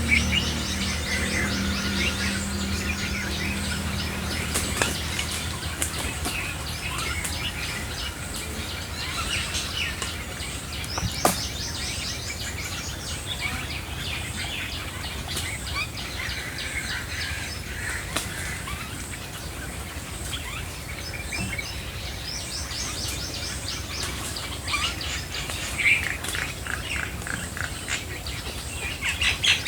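Several birds chirping and singing at once, with short high calls and rapid trills overlapping throughout.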